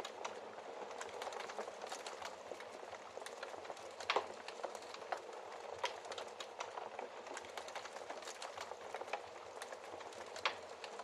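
Wood fire crackling in a fireplace: a steady hiss with many small snaps, and louder pops about four seconds in and again near the end.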